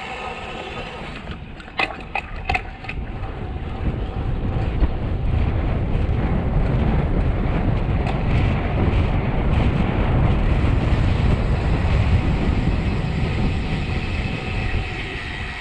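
Wind rushing over the microphone of a road bike on a fast mountain descent, swelling into a loud rumble a few seconds in as speed builds, with a few sharp clicks about two seconds in.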